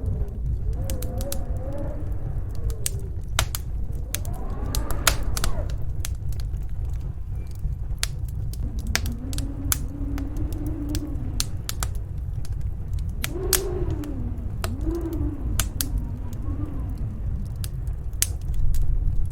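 Wood fire crackling with frequent sharp pops, over a steady low rumble of snowstorm wind. Now and then the wind howls in slow moans that rise and fall in pitch.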